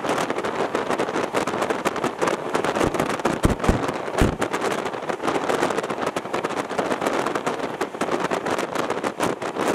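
Indian Railways passenger train running at speed, heard from inside the carriage by the window: a steady rumble and rattle of wheels on track, mixed with wind buffeting the microphone. A few heavy low thumps come about three to four seconds in.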